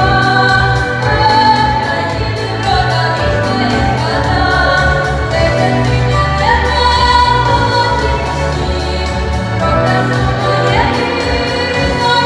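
A Ukrainian song: singing voices, with a choir-like sound, over instrumental accompaniment with a steady bass and an even beat.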